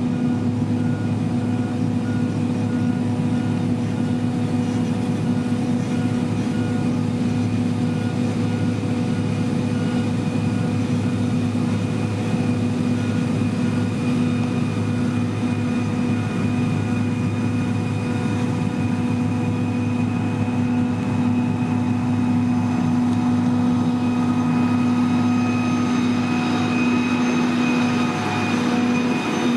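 Heavy diesel construction machine's engine running at a steady speed. A reversing alarm beeps through the first half.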